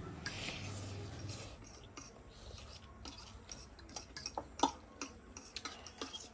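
Utensils clicking and clinking against dishes or cookware in irregular, scattered strikes, the sharpest a little past halfway.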